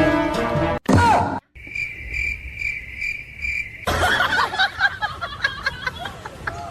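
Several short clips cut together. Music stops under a second in, followed by a brief falling squeak. Then comes a steady high-pitched chirp pulsing about twice a second for a couple of seconds, and finally a busier stretch of short chirps and squeaks over background noise.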